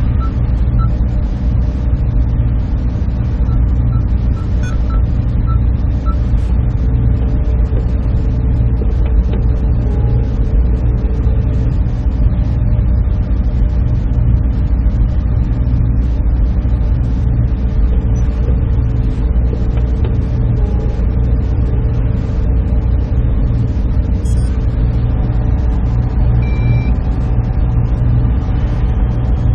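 Server room ambience: the steady drone and rush of many cooling fans and air handling, with a strong low hum. A few faint short electronic beeps sound in the first few seconds.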